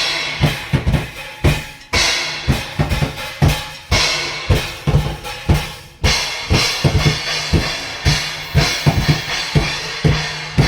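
Drum kit being played: a steady beat of bass drum and snare, with a cymbal crash about every two seconds.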